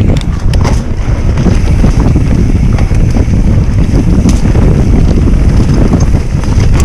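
Wind buffeting the microphone of a bicycle-mounted camera while riding at about 23 km/h: a loud, steady rumble with a few faint clicks over it.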